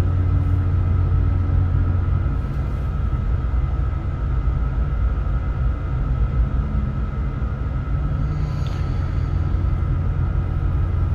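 An ASD tractor tug's diesel engines running steadily under moderate power: a deep low hum with a steady higher whine above it. The port drive carries slightly more RPM than the starboard drive, which stays at clutch.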